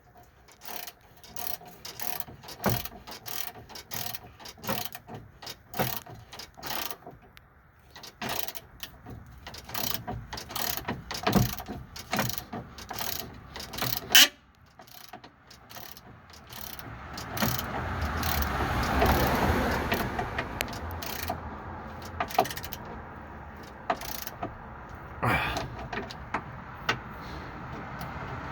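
Socket ratchet clicking in short runs while the sway bar link nuts are tightened, with a sharp metallic clack about halfway through. In the second half a steady rushing noise swells and then fades.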